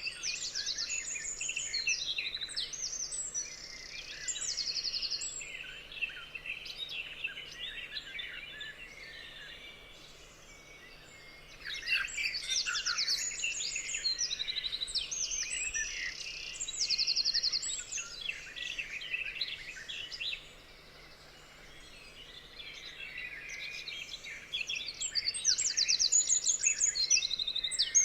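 Several forest songbirds singing and chirping over one another, with fast high trills. The song comes in bouts, thinning out briefly about a third of the way in and again about three-quarters of the way in.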